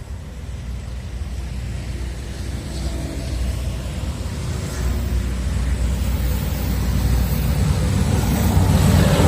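D9E diesel locomotive hauling a freight train as it approaches: a low engine rumble that grows steadily louder.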